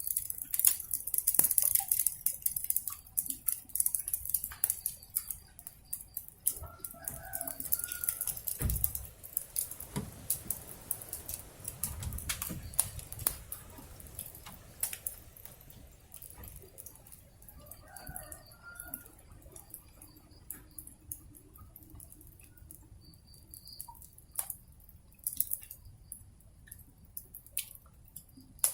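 Wood fire crackling with frequent sharp pops, while a rooster crows twice in the background, about a quarter and two-thirds of the way through.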